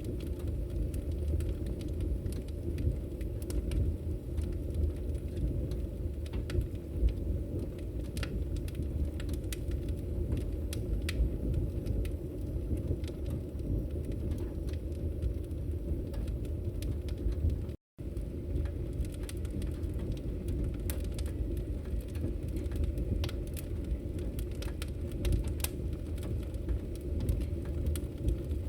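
Wood fire crackling in a fireplace: a steady low rumble of burning with scattered sharp pops and crackles throughout. The sound cuts out completely for a split second about two-thirds of the way through.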